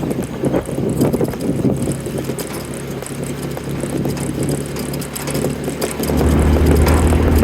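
A farm vehicle's engine running steadily, growing louder about six seconds in.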